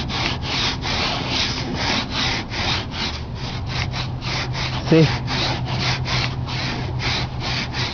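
Ice being scraped off a car's trunk in quick, even back-and-forth strokes, about four a second.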